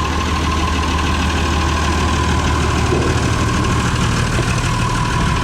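Oliver 7300 combine running steadily: a deep, even engine drone with a steady whine on top.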